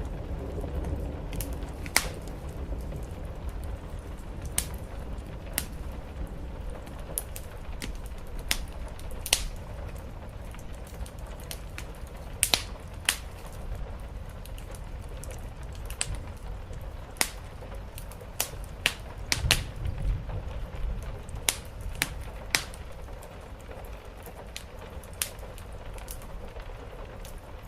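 Wood fire crackling, with irregular sharp pops about one or two a second over a steady low rumbling background. A deeper rumble dies away in the first second or two.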